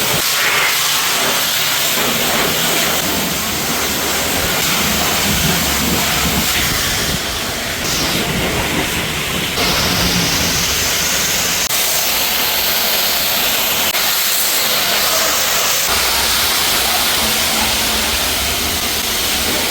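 Pressure washer spraying water onto a car: a loud, steady hiss of high-pressure spray that shifts abruptly in tone several times.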